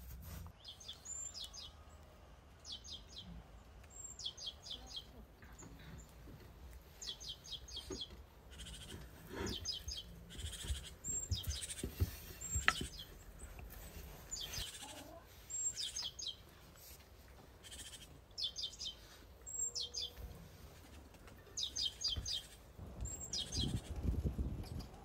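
A songbird singing a short, quick phrase of four or five high notes, repeated every couple of seconds. A few sharp knocks come from handling dough and a metal baking pan, the loudest about halfway through.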